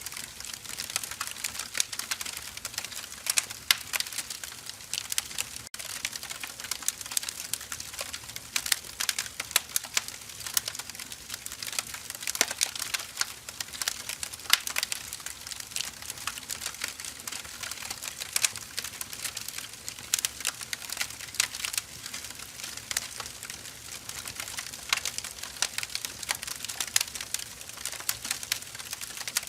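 Firewood burning: logs crackling steadily with frequent small sharp pops and snaps over a soft hiss.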